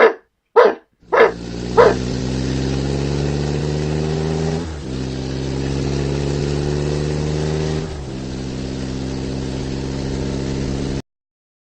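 Four short barks about half a second apart, then a steady engine drone that starts about a second in. The drone shifts slightly twice and cuts off suddenly near the end, as a dubbed-in sound effect does.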